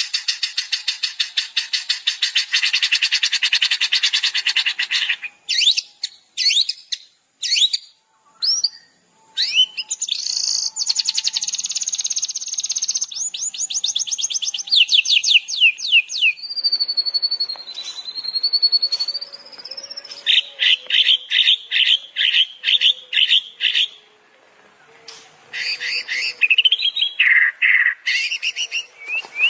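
Recorded songbird song played as a masteran tutor track for training cage birds to mimic. It opens with a fast, buzzy trill, then breaks into sharp separate chirps and quick rising trills. A long wavering whistle follows, then rows of repeated chirps at about three a second and a short warbled phrase near the end.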